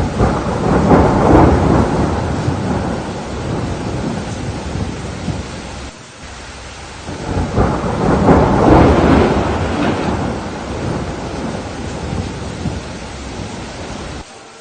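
Steady rain with two long rolls of thunder. The first starts right at the beginning, the second about seven seconds in; each swells and then slowly fades.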